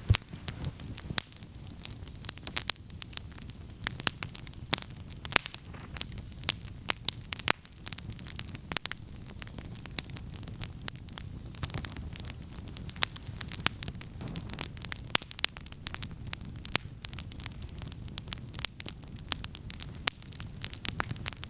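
Wood campfire burning, with frequent sharp, irregular crackles and pops over a low steady rumble of flames.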